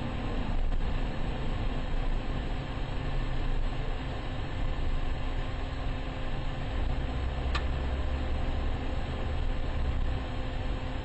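Steady driving noise of a road vehicle, rumbling road and engine noise heard from inside, with a single sharp tick midway and a heavier low rumble in the second half.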